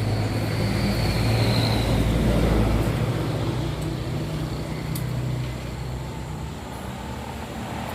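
A large engine running steadily, loudest over the first three seconds and easing off after.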